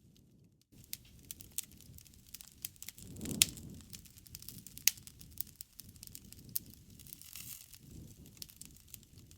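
Wood fire crackling in a fireplace: scattered sharp pops and snaps over a low rumble of flames, with the loudest pops about three and a half and five seconds in.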